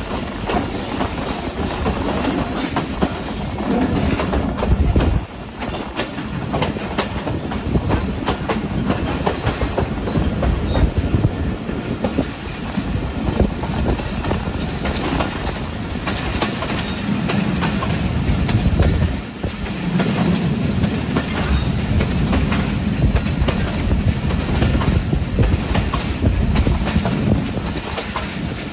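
Hazara Express passenger train running on the rails: a continuous rumble with wheels clicking and clacking over the track. The level dips briefly twice.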